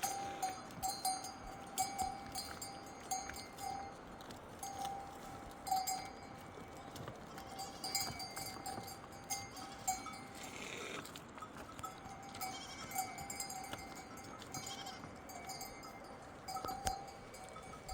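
Bells worn by livestock clinking and ringing irregularly as the herd moves, one clear ringing note coming and going over and over.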